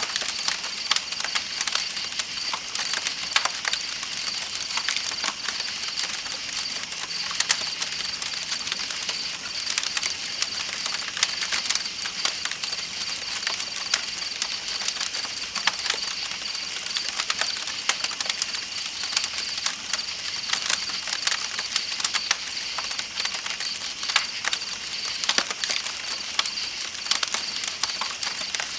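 Campfire crackling with irregular sharp pops, over a steady high trill of night insects and a flowing river.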